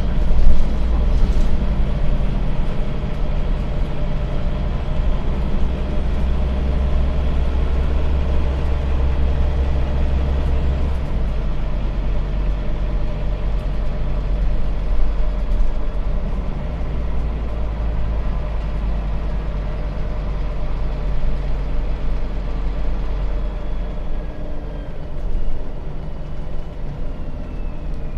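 Scania bus diesel engine and drivetrain heard from inside the bus while driving, a continuous low drone. The low engine note steps down about eleven seconds in, and a faint falling whine comes in near the end.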